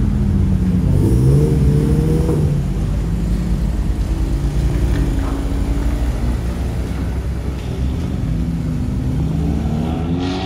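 A car engine running, its pitch rising and falling as it speeds up and eases off, with a climb in revs near the end.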